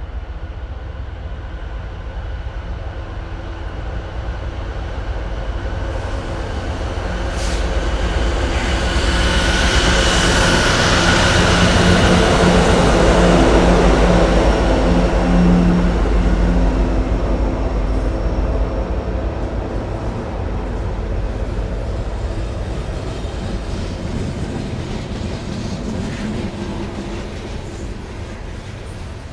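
Norfolk Southern diesel locomotives, a GE Dash 9-40CW leading and an EMD SD70ACe behind it, running on a loaded coal train. The engine drone and rumble grow louder to a peak about halfway through as they pass, then ease off while the loaded coal hoppers roll by.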